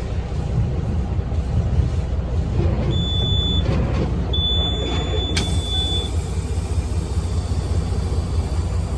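A heavy truck's engine idles with a steady low rumble. A high-pitched electronic beep sounds twice, the second one longer, and a steady hiss comes in about five seconds in.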